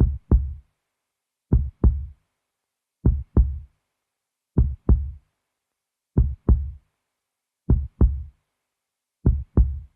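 Heartbeat sound effect: seven evenly spaced pairs of low thumps (lub-dub), about one pair every one and a half seconds, with dead silence between them.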